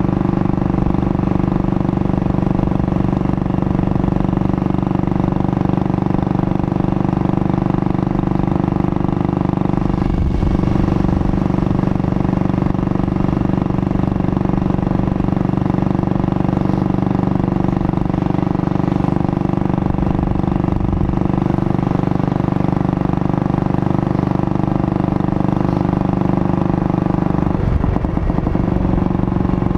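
Junak M10 motorcycle's single-cylinder four-stroke engine running steadily at cruising speed, heard from the rider's seat. The tone shifts briefly about ten seconds in and again near the end.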